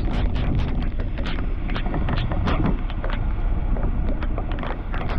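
Semi-truck driving through a snowstorm, heard as a steady low engine and road rumble with wind noise, broken by frequent irregular ticks and taps.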